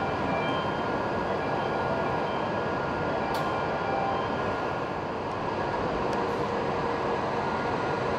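Hokuriku Shinkansen E7/W7-series train standing at a platform, a steady hum and hiss with faint steady tones, as the platform screen door closes beside it; a single sharp click sounds about three seconds in. Near the end the train begins to pull out.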